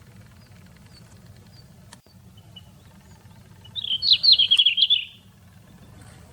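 A small songbird gives one short, rapid run of high chirping notes about four seconds in. Fainter single high call notes come earlier.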